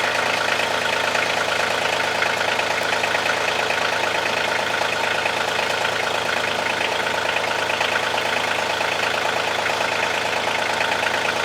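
Kioti CK2610 compact tractor's three-cylinder diesel engine running at a steady speed, with no revving.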